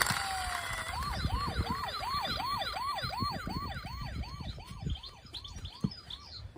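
Electronic toy siren: a falling tone in the first second, then a fast siren rising and falling in pitch about three times a second, fading out near the end.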